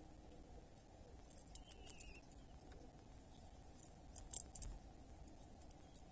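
Faint outdoor ambience with a low rumble, a few soft clicks and scratches in two clusters, and one short faint bird chirp about a second and a half in.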